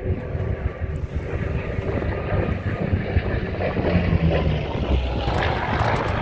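Piston-engined propeller aircraft running, a steady low drone.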